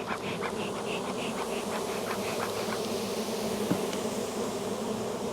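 Steady hum of a dense crowd of honey bees buzzing around a wide-open, overcrowded hive. A row of short high chirps sounds over it during the first two seconds, and there is one faint click nearly four seconds in.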